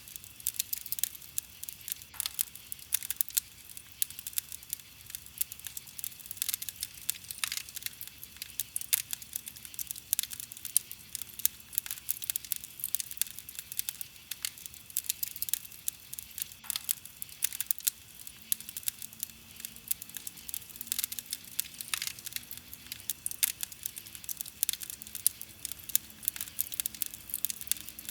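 Wood campfire crackling: a dense, continuous stream of small snaps and pops from burning wood, with louder pops scattered throughout.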